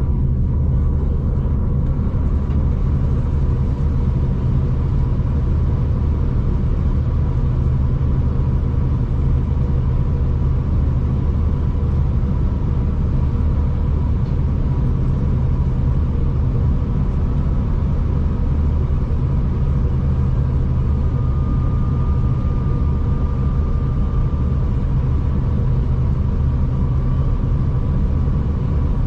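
Moving V/Line passenger train heard from inside the carriage: a steady, unbroken low rumble of running noise with a thin high whine. A second faint whine, a little higher, comes in about two-thirds of the way through.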